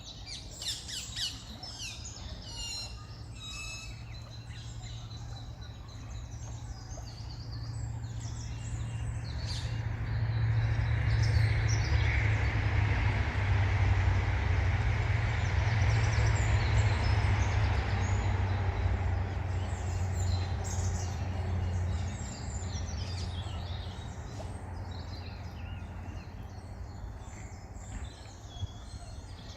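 Small birds chirping and calling, with a broad low rumbling noise that builds over several seconds, is loudest in the middle and then fades away again.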